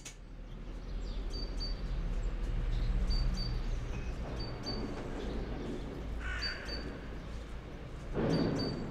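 Birds calling: short high notes in pairs, repeated every second or two, with a harsher, lower call about six seconds in. All of it sits over a steady low rumble.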